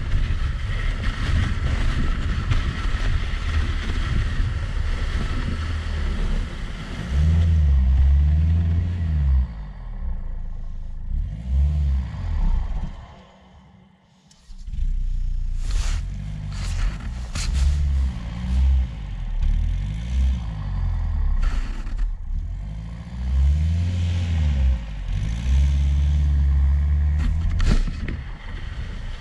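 Land Rover Freelander driving through deep snow, its engine revs rising and falling over a heavy low rumble. The noise drops away briefly about halfway through, and a few sharp clicks follow.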